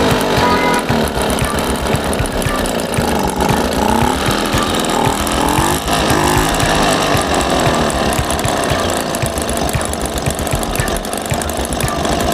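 Suvega moped engine running, a rapid, steady firing beat whose pitch drifts up and down a little at times.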